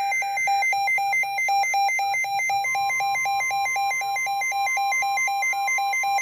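Weather alert radio alarm going off: a high and a low beep alternating rapidly, about four times a second. About two and a half seconds in, the steady NOAA Weather Radio warning alarm tone joins it, announcing a severe thunderstorm warning.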